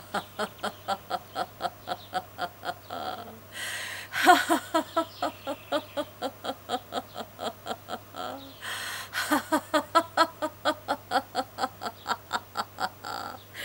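A woman laughing in a steady staccato "ha-ha-ha", about four beats a second, mimicking the chug of a canal boat engine. The laughter comes in three long runs, each broken by a loud in-breath.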